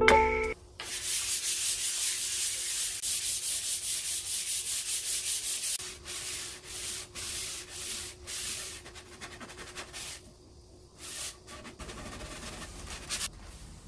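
Wood being hand-sanded with sandpaper: quick, even back-and-forth strokes, about four a second, then slower, quieter strokes from about six seconds in, with a short pause near the end.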